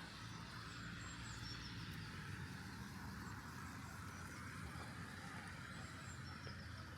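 Quiet city street ambience: a low, steady rumble of distant traffic, with a few faint, short high chirps about a second in and again near the end.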